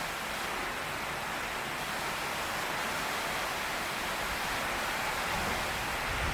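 Heavy rain pouring steadily on a tin roof, an even hiss of many drops.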